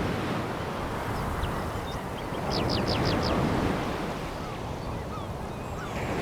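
Sea waves washing onto a pebble beach, a steady rushing that swells about two and a half seconds in. A few short high-pitched clicks come with the swell.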